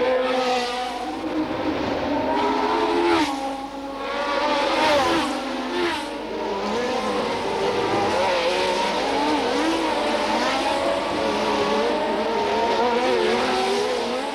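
Several 1970s Formula 1 car engines running at high revs, their pitches overlapping and rising and falling. There are short dips about three and a half and six seconds in.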